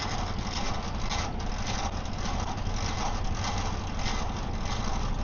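Diesel semi-truck engine idling, a steady low rumble.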